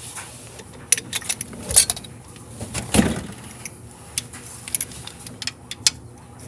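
Metal hand tools and sockets clinking and clattering in a series of sharp clicks, with one heavier knock about three seconds in.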